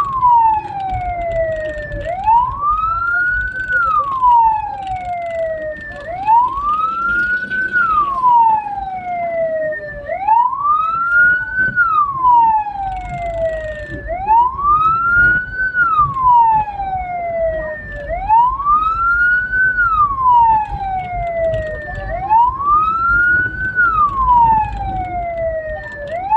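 Hearse's siren wailing: a tone that climbs quickly and falls away more slowly, repeating about every four seconds, over low engine and road rumble.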